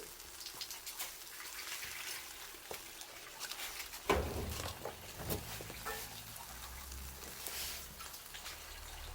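Campfire crackling with scattered small pops, and one sharp knock about four seconds in.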